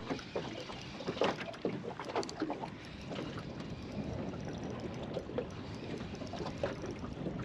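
Small water sloshes and splashes with scattered light clicks and knocks, over low wind.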